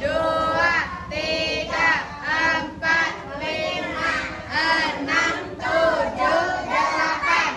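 Children singing together in short, regular sung syllables, like a chanted exercise song.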